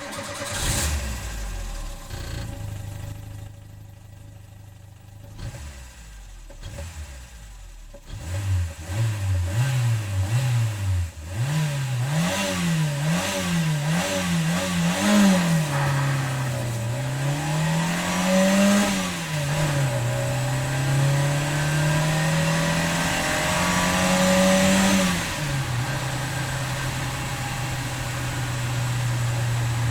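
Renault 19's petrol four-cylinder engine starting up and idling, then revved in quick blips about once a second, then in slower, longer revs with one held high for a few seconds, before dropping back to a steady idle near the end.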